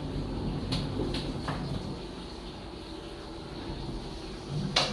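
LG Trom clothes dryer running just after being started: a steady low hum, with a few light clicks early on and a sharper click near the end.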